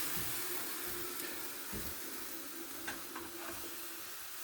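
Chicken, vegetables and egg noodles sizzling as they fry in a pan, a steady hiss with a few light clicks from the stirring utensil.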